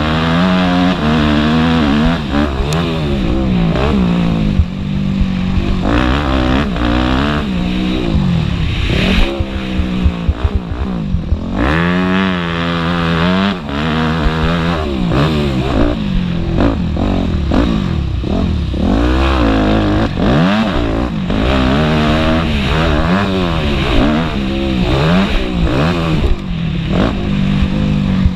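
Motocross motorcycle engines revving hard, the pitch climbing and dropping again and again as the throttle is worked and gears change.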